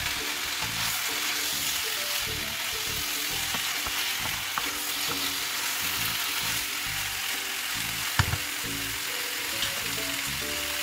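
Chicken pieces and chicken feet sizzling in a nonstick wok with fried spice paste while a wooden spatula stirs and scrapes them. One sharp knock a little past eight seconds in.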